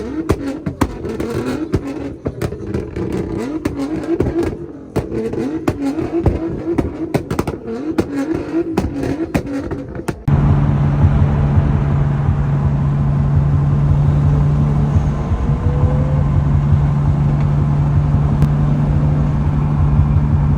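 Car engines revving up and down with a rapid string of sharp exhaust pops and crackles. About halfway through this cuts abruptly to a steady, even engine drone at a constant pitch.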